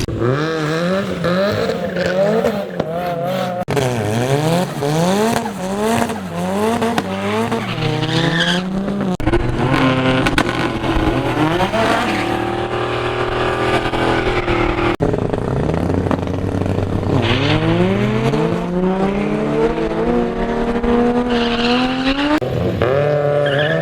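Turbocharged Saab B204 four-cylinder drag-car engine, exhaust and screamer pipes loud. It is revved up and down repeatedly, held high, then run up with a long rising pitch under acceleration, in several abrupt cuts.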